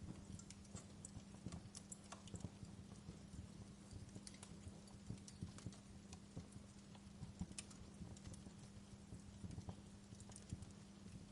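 Wood fire crackling in a fireplace: irregular sharp pops and snaps, some louder than others, over a steady low hum.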